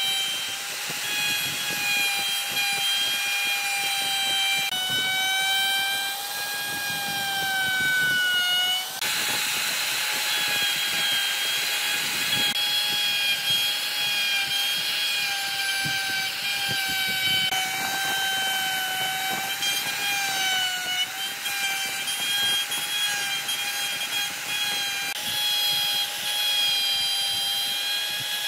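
A handheld electric power tool running on wood with a steady high whine whose pitch dips slightly now and then as it takes load. The sound shifts abruptly several times.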